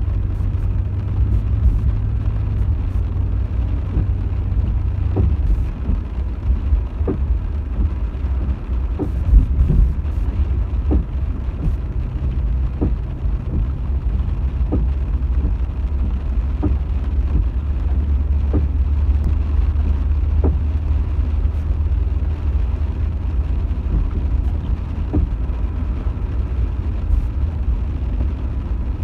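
Car driving, heard from inside the cabin: a steady, low road and engine rumble, with a faint tick about every two seconds.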